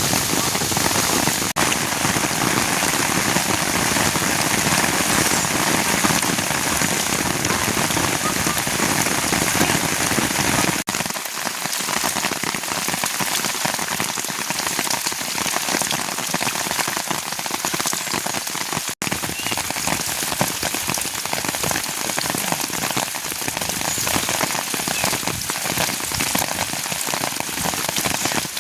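Steady rain falling, a dense even patter. There are brief dropouts a few times, and after one of them, about eleven seconds in, there is less low rumble.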